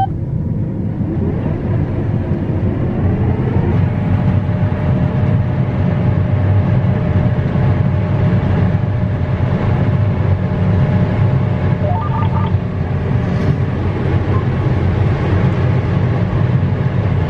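Combine harvester running steadily while picking corn, heard from inside the cab as a loud constant low drone. A few short faint beeps sound past the middle.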